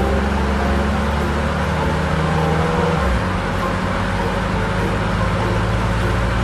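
Vehicle engine running steadily, a low hum over a noisy hiss, its pitch shifting about three seconds in.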